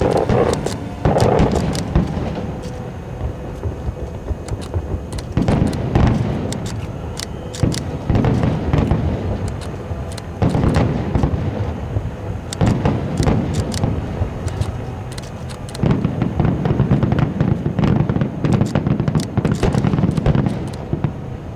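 Aerial fireworks going off in quick succession: deep shell bursts come in waves every two to three seconds, with dense sharp crackling running between them.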